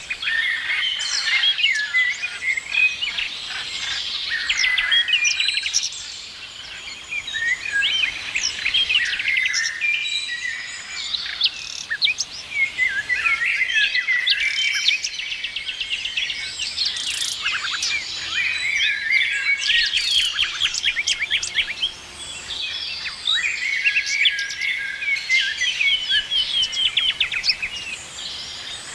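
Several songbirds singing and chirping at once, a dense chorus of overlapping trills, rapid repeated notes and quick whistled glides, with no single species standing out.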